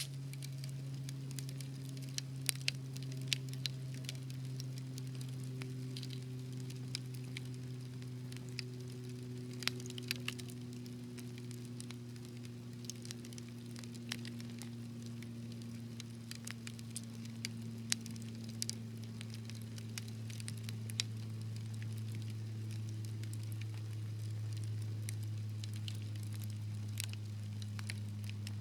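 Wood fire crackling in a fireplace, with sharp pops at irregular intervals over a steady low hum that slowly sinks in pitch.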